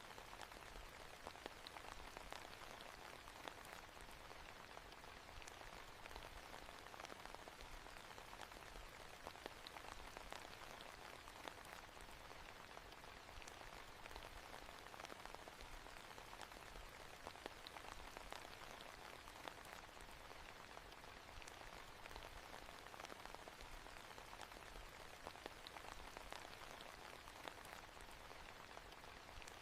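Faint, steady rain, an even hiss dotted with the light patter of individual drops.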